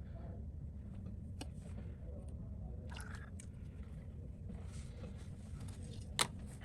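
Faint crackling and scraping as the old adhesive is scraped and peeled off an iPhone 14 Pro's OLED display, with a sharp click about six seconds in, over a steady low hum.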